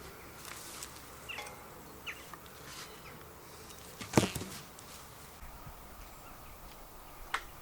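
Insect buzzing, with a single sharp knock about four seconds in and a smaller click near the end.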